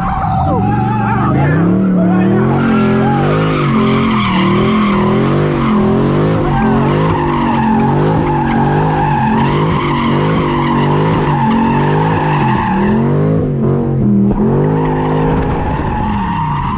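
Car sliding with its tires squealing steadily while the engine revs rise and fall about once a second. The squeal breaks off briefly about fourteen seconds in, then comes back.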